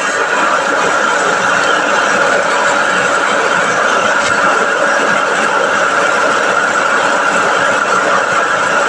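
Small electric rice milling machine running at speed, a steady high whine over a loud grinding rush of grain being milled.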